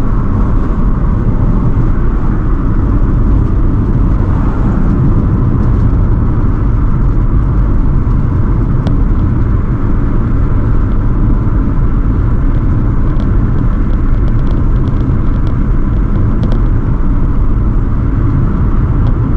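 Car driving along a highway: steady engine and road noise with a heavy low rumble.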